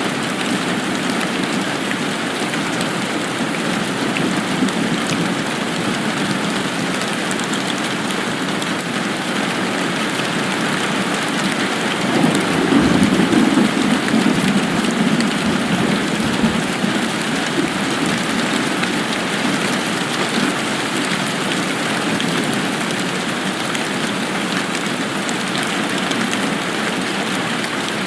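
Steady rain falling in an even hiss, with a low rumble that swells and fades about halfway through.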